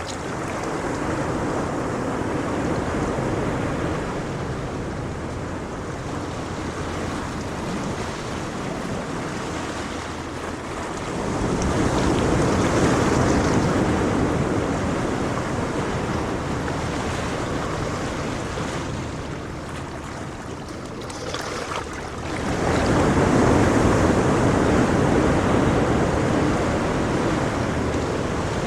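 Ocean waves breaking and washing up the shore, two larger waves about 11 and 22 seconds in, each swelling and fading slowly.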